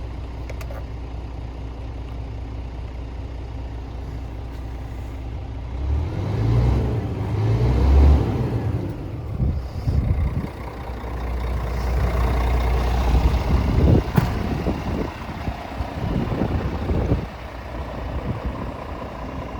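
Scania S450 truck's 13-litre straight-six diesel idling steadily, then revved up and down several times for about ten seconds before settling back toward idle.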